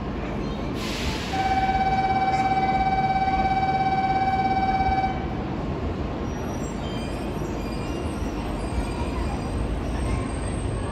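Departure of a Tokaido Shinkansen train: a short hiss, then a steady, slightly warbling signal tone for about four seconds. After it the train starts moving off, with faint shifting electric tones.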